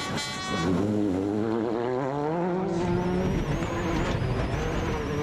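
2005 World Rally Car engine revving hard, its pitch climbing and dropping repeatedly through gear changes, with a thin high whine joining about three seconds in.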